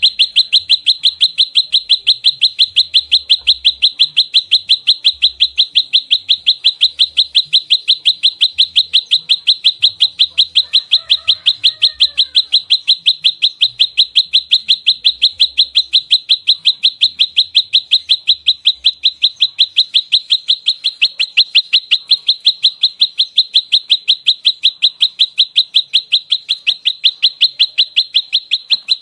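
Prenjak lumut, a prinia, calling a fast, unbroken series of sharp, identical notes, about four a second. This is the rapid-fire 'nembak rapat' fighting call. A second bird calls faintly about ten seconds in.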